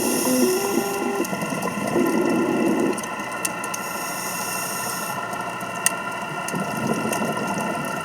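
Underwater recording from a scuba diver's camera: a steady mechanical hum with several fixed tones, broken twice by a hiss of exhaled bubbles from the diver's regulator, each lasting about a second.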